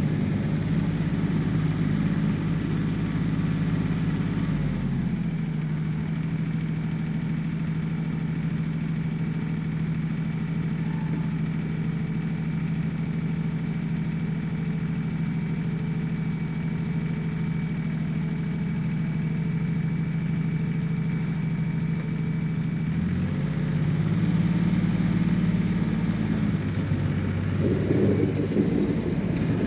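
1985 John Deere 1050 tractor's three-cylinder diesel engine running while plowing snow. Its pitch drops a few seconds in, holds steady for a long stretch, then rises again later on.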